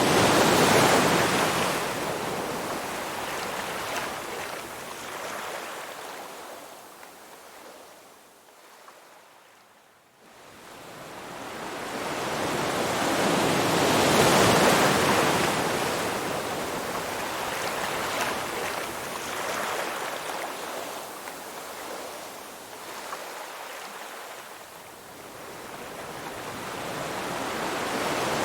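Ocean surf rising and falling in slow surges. Each wave swells up loudly and then washes away into a quiet lull. The peaks come near the start and again about halfway, and the deepest lull falls about a third of the way in.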